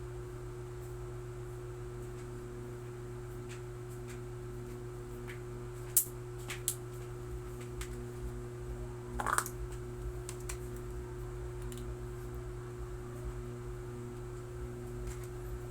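A steady low hum with a faint, evenly pulsing tone, broken by a few sharp clicks about six seconds in and a short rustle a little after nine seconds.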